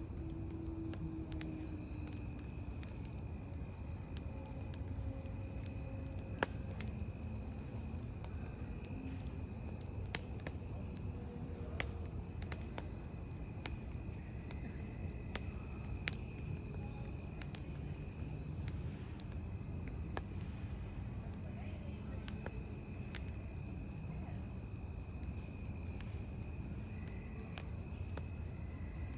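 Crickets trilling steadily over a burning wood campfire, whose low, steady rumble is broken by sharp crackles and pops from the firewood, a few of them louder than the rest.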